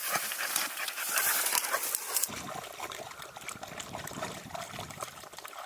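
Hunting dog moving through brush with a dense crackling and rustling, which grows fainter about two seconds in.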